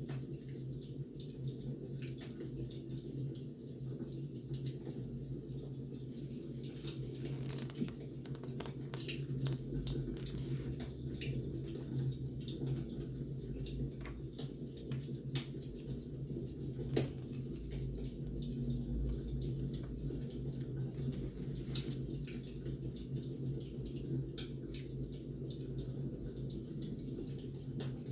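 Burning firewood crackling: irregular small pops and snaps over a steady low hum, with one sharper pop about two-thirds of the way through.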